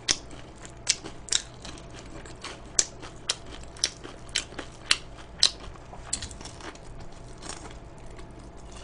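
Close-up chewing of crispy fried chicken: a dozen or so sharp, irregular crunches of the crust, fewer after about six seconds.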